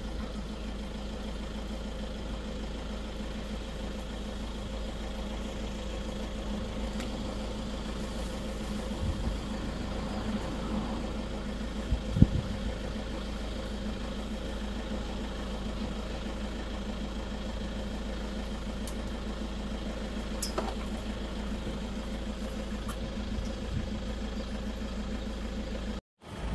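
A safari vehicle's engine idling steadily while stopped, with one sharp knock about halfway through.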